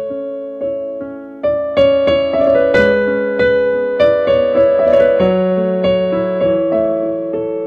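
Slow instrumental piano-style keyboard playing. Chords and single melody notes are struck a few at a time and left to ring and fade, with no singing.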